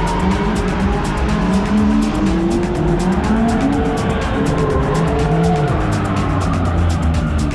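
Music with a fast, steady beat laid over car sounds: engines and squealing tyres.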